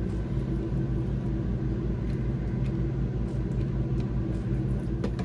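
Steady low mechanical hum of a running machine, with a few faint small clicks of handling.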